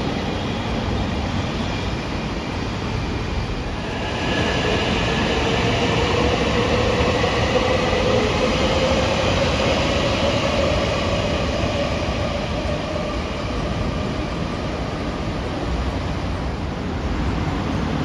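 A train running past on the rails, a steady running noise with a whine that comes in about four seconds in, grows louder, and fades away around the middle.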